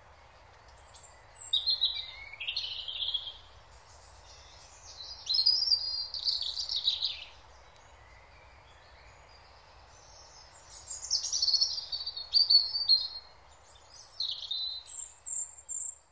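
Birds singing outdoors in short warbling, chirping phrases, four or five of them a few seconds apart, over a faint steady background hiss.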